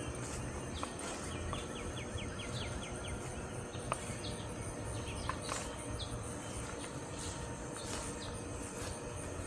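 Outdoor ambience: scattered short bird chirps, including a quick run of about eight chirps near two seconds in, over a steady high insect hum and a low rumble.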